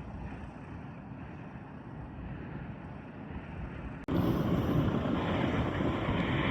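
Steady rushing wind noise on the microphone. About four seconds in it breaks off abruptly and comes back louder and brighter.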